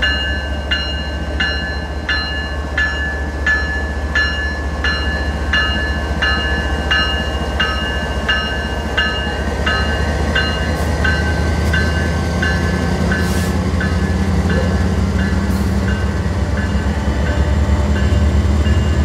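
A train running with a steady low rumble while a bell rings in an even rhythm, about three strokes every two seconds. The ringing fades through the second half as the rumble grows heavier near the end.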